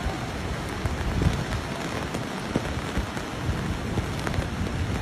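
Steady, dense rush of water from heavy rain and flash-flood runoff, with scattered low thumps.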